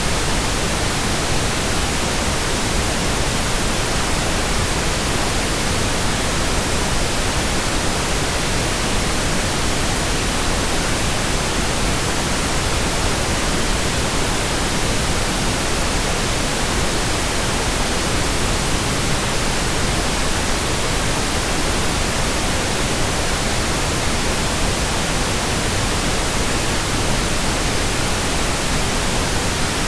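Steady, unbroken white noise: an even hiss across all pitches with no changes or events, played as a sleep aid for babies.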